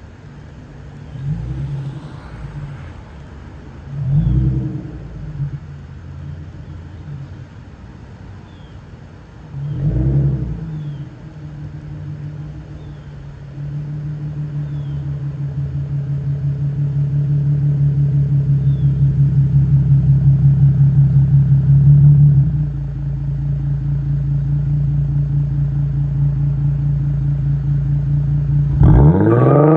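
Infiniti Q50's VQ-series V6 through a muffler-deleted exhaust: idling with three short throttle blips, then a long steady louder stretch that swells and drops back, and a sharp rising rev near the end.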